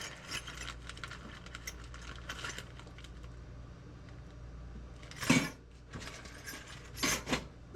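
Small metal drill bits clinking and rattling as they are sorted through, with a louder clack about five seconds in and two more sharp clicks near the end.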